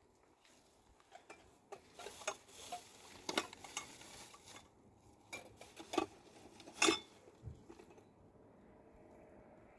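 Irregular clinks and knocks of hard objects being handled, like dishes and utensils, the loudest about seven seconds in.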